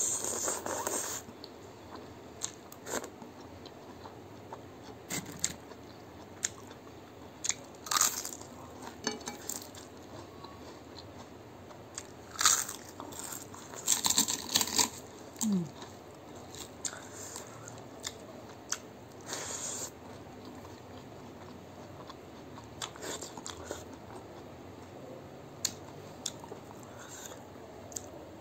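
Close-up mouth sounds of a person eating rice and leafy greens with her hand: wet chewing, biting and crunching in scattered bursts, with a short falling hum about fifteen seconds in.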